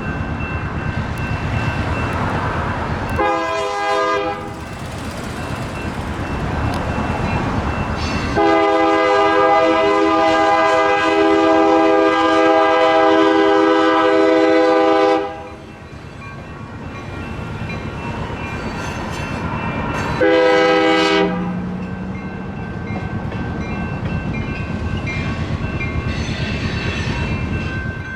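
Sacramento light rail train sounding its horn three times: a short blast, a long blast lasting about seven seconds, then another short blast. The train's running noise rumbles on underneath.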